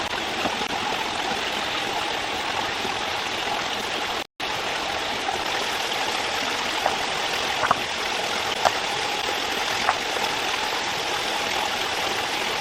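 Steady rush of flowing stream water, with a few faint ticks near the middle. The sound cuts out completely for a moment about four seconds in.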